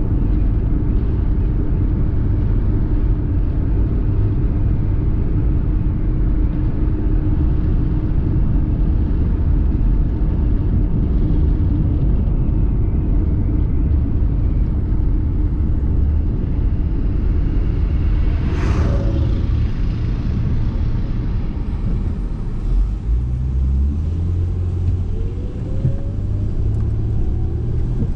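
Car driving on the road: a steady low rumble of road and engine noise, with a short sharp sound about two-thirds of the way through and a tone rising in pitch near the end.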